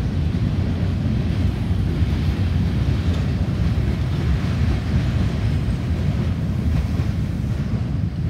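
Freight train of covered hopper cars rolling past, a steady low rumble of wheels on rail, with wind buffeting the microphone.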